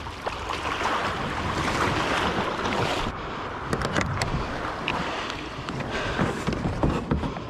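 Water rushing and sloshing around a kayak, with wind on the microphone; the rush eases about three seconds in, and a few light knocks follow.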